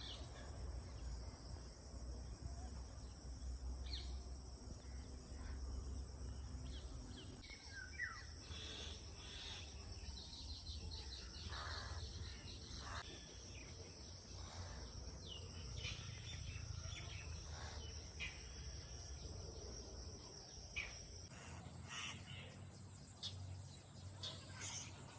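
Outdoor ambience of insects trilling steadily on one high note, which changes to a higher note about 21 seconds in, with crows cawing now and then.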